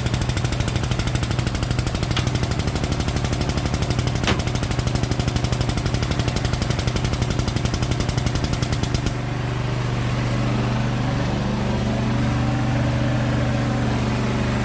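Pump of a chain-pulling frame straightener rattling rapidly as it applies a pull, over a steady low drone; the rattling stops abruptly about nine seconds in, leaving the drone alone.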